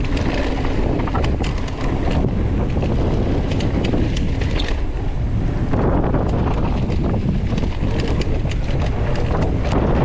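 Wind buffeting the microphone as a trail mountain bike descends fast on a rough dirt flow trail, with steady tyre and rolling noise and many sharp rattles and clicks from the bike over bumps.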